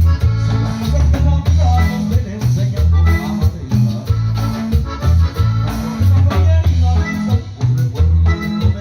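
Live Latin band music, with a bass line and drums keeping a steady dance rhythm.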